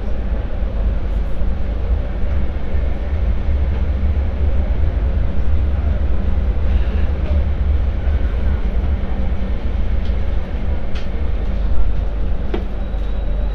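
MTR Light Rail Phase IV light rail vehicle running on the track: a steady low rumble with a few sharp clicks from the wheels and car near the end. A steady high tone comes in right at the end.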